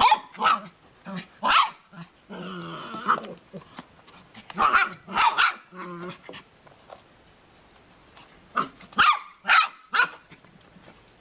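A dog barking: about a dozen short barks in clusters with pauses between them, and one longer drawn-out call a little over two seconds in.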